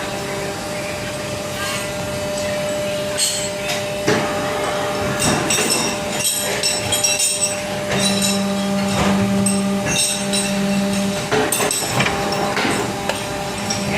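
Injection molding machine running: a steady hydraulic hum with several held tones, and irregular metallic clanks and clicks from about four seconds in.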